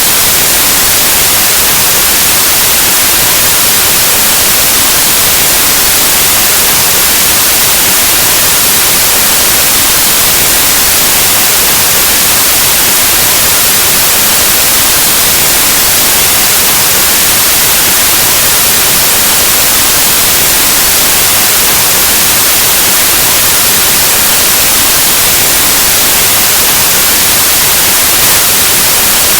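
Steady, loud white noise: an even, unbroken hiss like analog TV or radio static.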